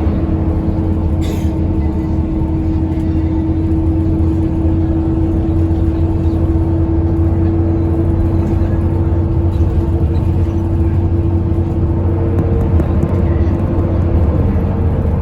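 Express bus engine and road rumble at highway cruising speed: a steady, loud drone with a steady hum that fades out about 14 seconds in.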